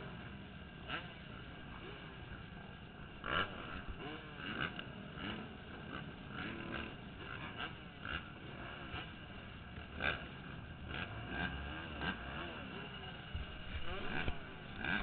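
Motocross bike engines idling and being blipped, the revs rising and falling again and again, with a few sharp clicks or knocks, picked up by a helmet camera.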